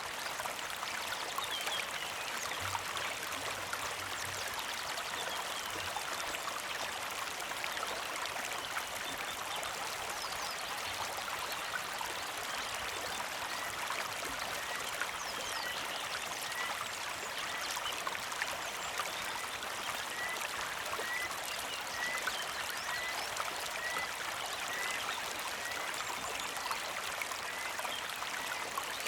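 Creek water flowing with a steady trickle and splash. From about halfway a bird repeats a short high chirp roughly every three-quarters of a second.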